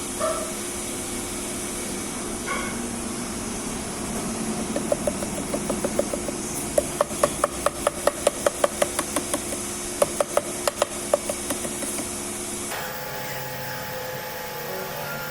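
Steady hiss, as of compressed air or a spray gun, with a run of quick light taps, about four or five a second, from about five seconds in. The hiss cuts off near the end.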